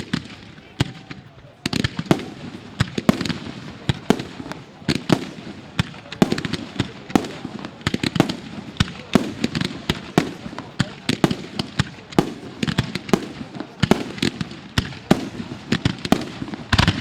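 Fireworks display: a dense run of sharp bangs, several a second, thickening about two seconds in.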